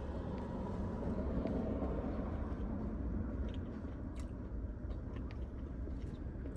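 Someone chewing and biting food close to the microphone, with small scattered clicks over a steady low rumble.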